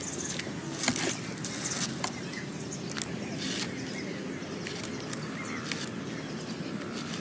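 Rustling and crackling of leaves and twigs being handled, with a few sharper snaps.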